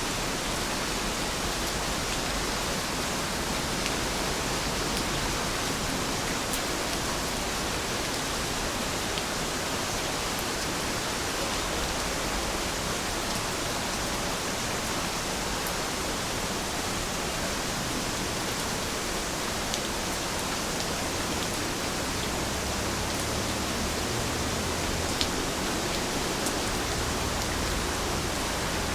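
Heavy rain falling steadily, an even hiss with a few faint single drop ticks.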